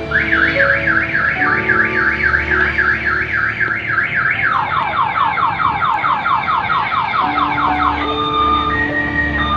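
An electronic alarm siren sounding over background music. It starts with a fast up-and-down warble and switches about halfway through to a rapid run of falling whoops, several a second, which stop near the end.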